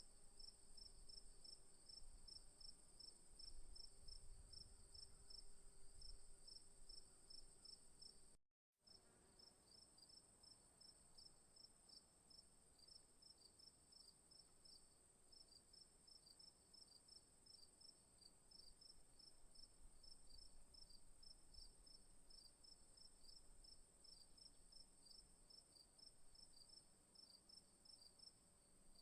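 Faint chorus of crickets and other insects in the bush: a steady high-pitched trill with a rapid, evenly pulsed chirping just below it. A low rumble sits under it for the first eight seconds, and the sound cuts out completely for a moment about eight seconds in.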